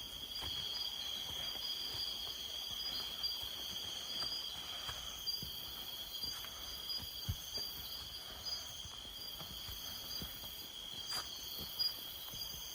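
Night chorus of crickets and other forest insects: steady high-pitched trills, several voices at different pitches, some pulsing. A few faint clicks and knocks now and then.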